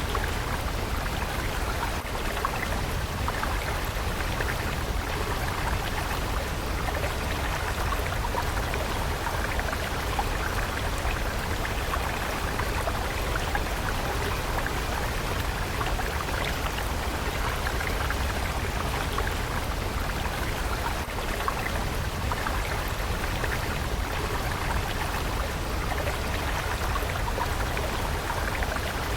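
Steady babbling of a flowing water stream, a continuous even splashing with fine droplet patter.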